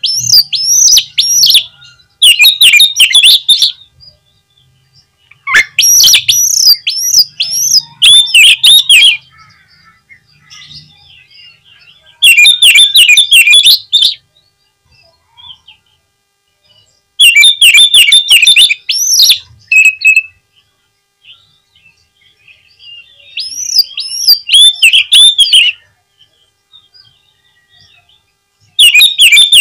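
Oriental magpie-robin (kacer) singing loud phrases of rapid, quickly changing notes, about seven phrases of two to three seconds each with short pauses between them.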